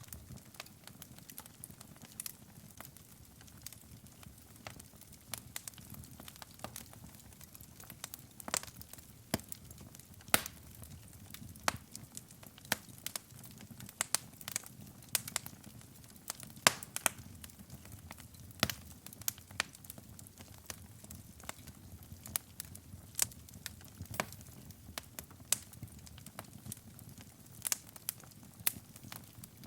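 Wood fire burning in a fireplace, crackling with frequent irregular sharp pops over a low, steady rumble of the flames.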